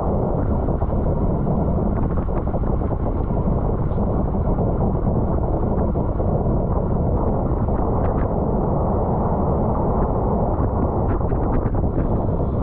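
Wind rushing over the microphone of a camera on a moving bicycle, a steady low rumble, with a few faint clicks near the end.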